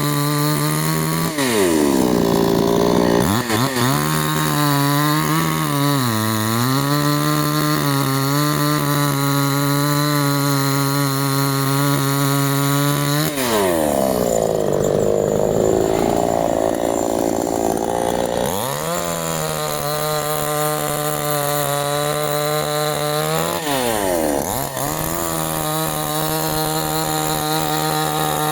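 Canfly 5800 two-stroke petrol chainsaw running at high throttle, its engine note sagging several times as the chain bites into the wood. In the middle comes one longer cut, where the pitch drops well down and the sawing turns rough for a few seconds before the engine revs back up.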